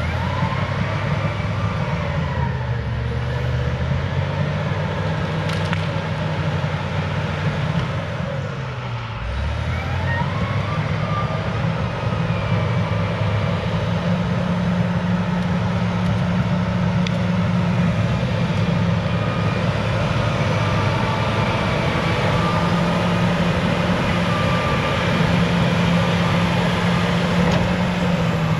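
Cat D6H bulldozer's diesel engine working under load. Its pitch sags twice, near the start and about nine seconds in, then climbs back and holds steady, with a higher whine rising and falling over it.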